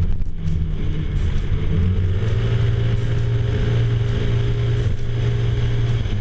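Vespa GTS 300's single-cylinder four-stroke engine running through a Euro 4 Akrapovic exhaust with a fixed dB killer. The revs rise about two seconds in, hold, and fall back near the end.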